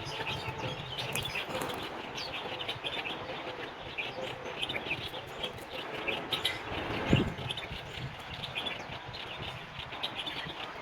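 Small birds chirping, many short high chirps throughout, with a single thump about seven seconds in.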